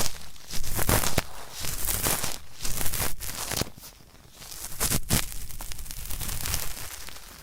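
Cotton swab scraping firmly inside the ear, as if grinding at hard earwax: close, rough scratching and crackling in repeated strokes, easing off briefly about four seconds in.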